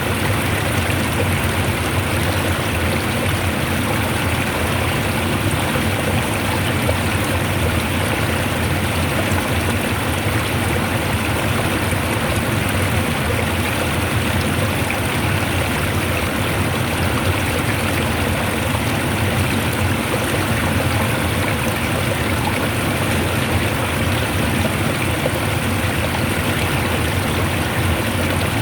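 Fast-flowing water rushing steadily, like a strong stream.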